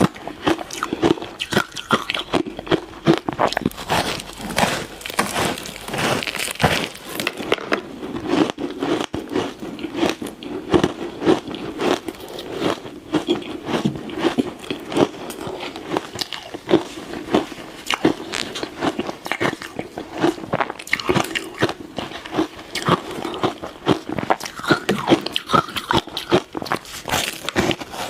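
Ice being bitten and crunched between the teeth: a dense run of crisp crunches and cracks, with chewing in between, that keeps going without a pause.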